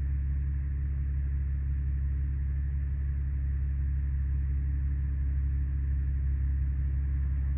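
Steady low drone of an Audi A8 idling, heard from inside the cabin, unchanging throughout.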